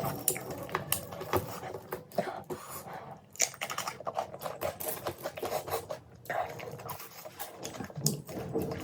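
Close-miked eating sounds: chewing, made up of many quick, irregular crisp clicks and crunches.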